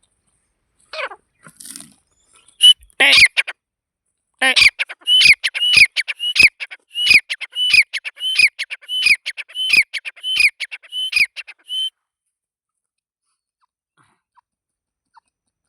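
Francolin (titar) calling: a few downward-sweeping notes, then a rapid series of loud ringing notes, about two a second, which stops about twelve seconds in.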